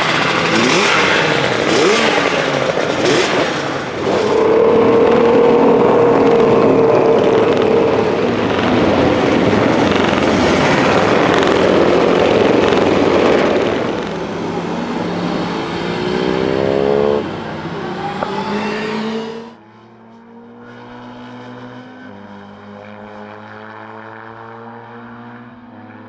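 Classic racing motorcycle engines running and revving loudly, with a rising rev shortly before the sound cuts off abruptly about 19 seconds in. It is followed by a much quieter, steady engine drone made of several held tones.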